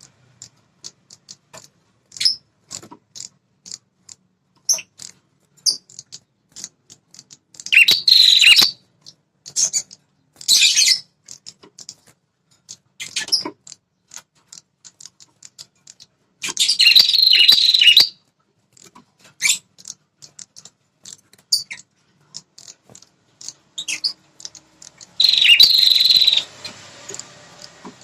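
Red-headed prenjak calling: a run of short sharp ticks broken by four loud, rapid chattering bursts of song. It is the excited territorial call used as a lure to make male prenjak answer.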